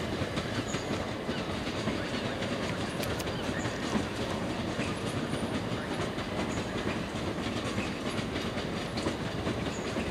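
Southern Class 377 Electrostar electric train running slowly past, a steady rumble with a run of wheel clicks over the track.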